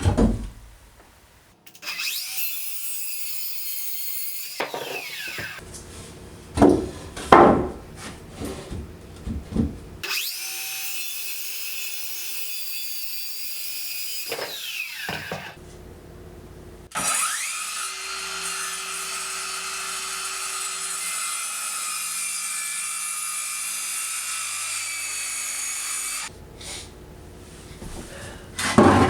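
Electric power saw cutting 2x4 framing lumber in three long runs, each a high-pitched whine that winds down when the trigger is released. Between the cuts come sharp knocks and clatter of boards being handled.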